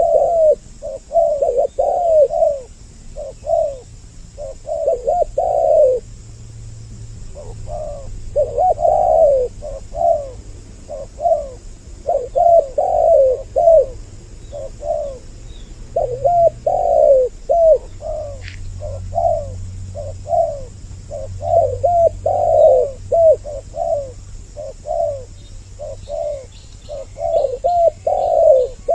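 Spotted doves cooing over and over in a dense, overlapping 'double voice' of two birds calling, with a short lull about six seconds in. Faint small-bird chirps come in near the end.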